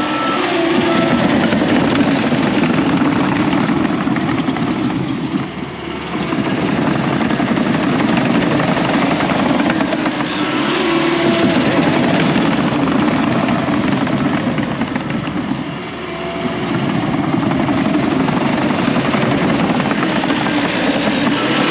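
John Deere 650K crawler dozer's diesel engine running steadily, its sound dipping briefly twice, about five seconds in and again about sixteen seconds in.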